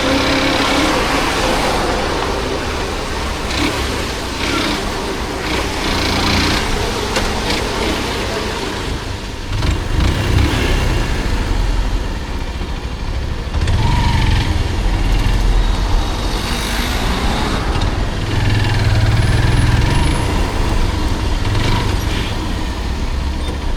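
Motorcycle engine and road noise while riding in city traffic, with the low engine rumble swelling several times as the bike speeds up.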